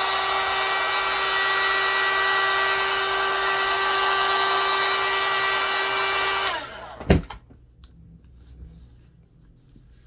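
A small electric power-tool motor running at a steady high whine, switched off about six and a half seconds in and winding down, followed by a single sharp knock as it is set down.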